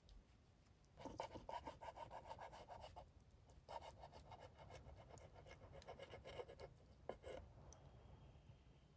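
Quiet, rapid back-and-forth scraping strokes in two runs of about two to three seconds each, with a couple more strokes near the end.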